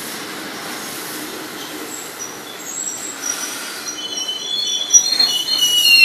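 NJ Transit double-decker passenger train rolling past with a steady rumble, which gives way about halfway through to several high-pitched metallic squeals from the wheels and brakes. The squeals grow louder as the train slows toward a stop.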